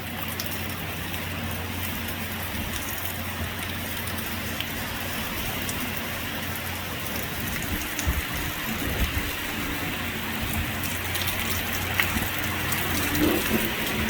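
Heavy hurricane rain falling steadily, with a few sharp drips or taps. A low steady hum runs underneath.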